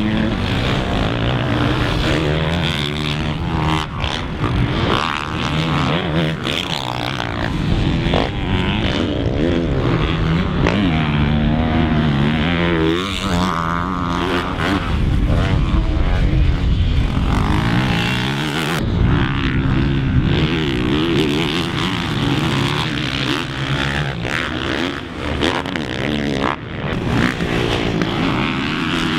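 Honda four-stroke motocross bike ridden hard, its engine revving up and falling off again and again through gear changes and throttle blips.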